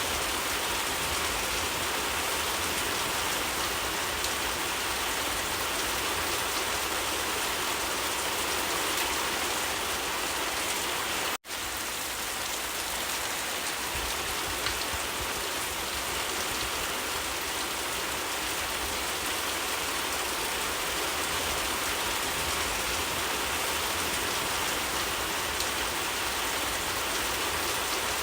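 Steady rain falling, an even hiss of drops on surfaces. About eleven seconds in, the sound cuts out for a split second and then resumes unchanged.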